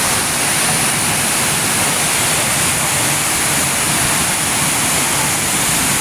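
Waterfall: falling water rushing steadily with an even hiss.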